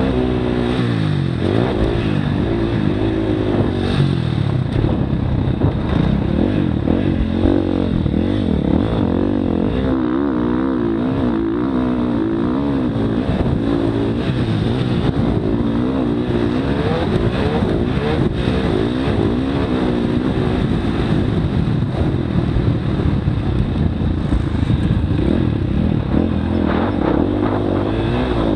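Motocross dirt bike engine revving up and down without a break while being ridden on the track. Its pitch rises and falls every second or so with the throttle changes.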